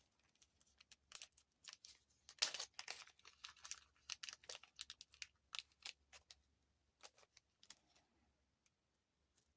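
Faint, irregular clicks and rustles of small jewelry beads and charms being handled and set down on the work surface.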